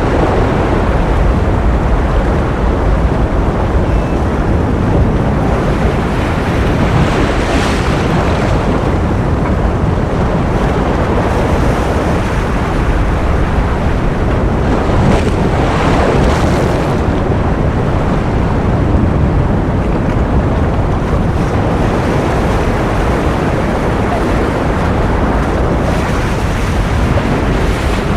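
Ocean surf: a steady wash of noise, heaviest in the low end, with waves swelling into a brighter hiss about seven and again about fifteen seconds in.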